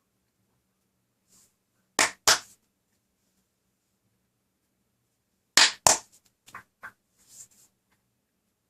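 Two pairs of sharp raps, each pair quick and even, the second pair a few seconds after the first, followed by a few fainter clicks.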